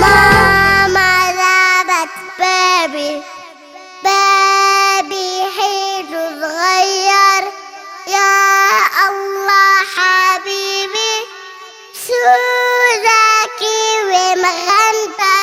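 A young girl singing an Arabic children's nasheed in a clear high voice; the low instrumental backing drops out about a second in and the melody carries on almost unaccompanied.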